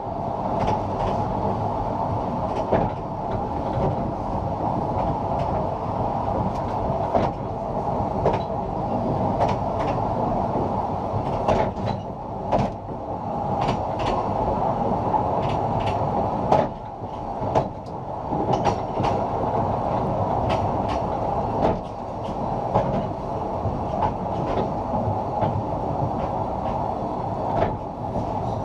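Narrow-gauge train running along 2 ft 3 in track: a steady rumble of the wheels on the rails, with sharp clicks and knocks at irregular intervals.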